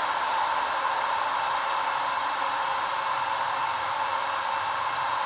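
Steady hissing noise played by the Digisound 3.1 sound decoder through the small speaker of a model MÁV V63 electric locomotive, unchanging throughout.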